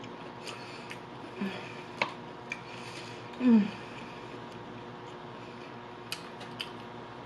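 Close-miked chewing of fried food, with a few light crunchy clicks from the mouth. About three and a half seconds in comes a short hummed "mmm" that falls in pitch, the loudest sound here.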